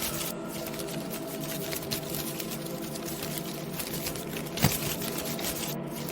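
Dense crackling and pattering over a steady low hum, with one louder sharp pop a little past the middle.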